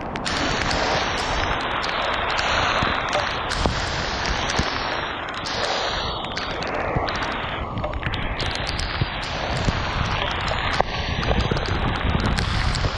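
Heavy tropical rainstorm pouring down, with wind gusting across the microphone in swells that rise and ease.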